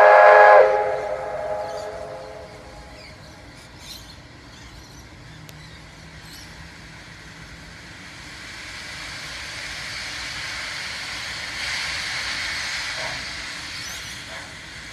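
Two K class steam locomotives departing: a steam whistle's chord cuts off about half a second in and echoes away, then a steady hiss of steam and train noise builds over several seconds, loudest about three quarters of the way through.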